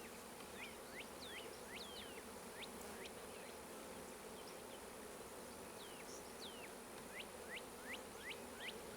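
A colony of honeybees buzzing steadily at an open hive, a low, even hum, with runs of short high sweeping chirps in the background near the start and again in the last few seconds.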